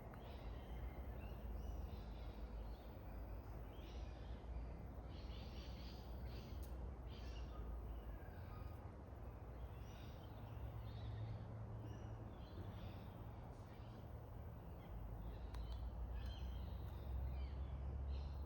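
Several small birds chirping and twittering in short, irregular calls, over a steady low background rumble.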